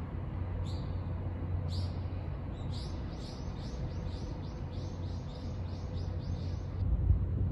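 A small bird calling: two single chirps, then a quick run of about a dozen sharp, falling chirps, some three a second, that stops near the end. A steady low rumble lies underneath.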